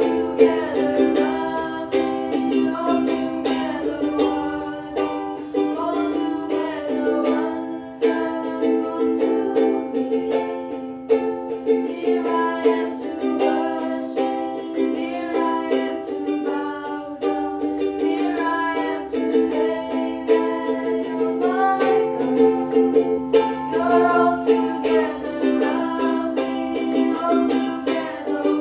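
A hymn tune played on a strummed plucked-string instrument, with a steady, even strumming rhythm.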